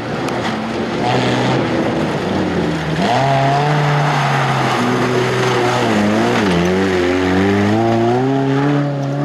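Off-road race vehicle's engine revving hard under load, its pitch dropping briefly about three seconds in and again past the middle, then climbing back up.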